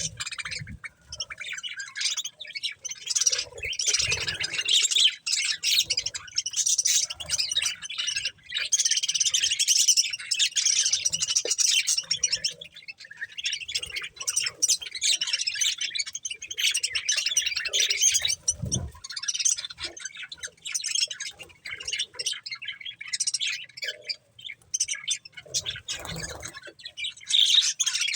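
Pet budgerigars chattering and chirping continuously in a busy stream of quick chirps and squawks, with a few dull low thumps.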